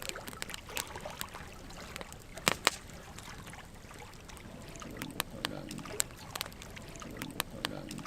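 Burning logs in a wood fire crackling, with irregular sharp pops over a steady low rush of flame. Two loud pops come close together about two and a half seconds in.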